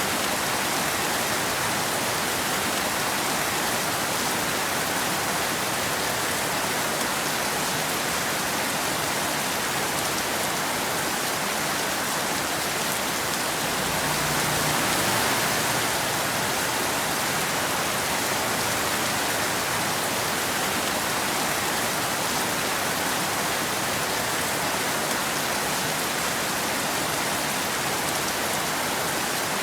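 Steady rain falling, an even hiss throughout, swelling slightly about halfway through.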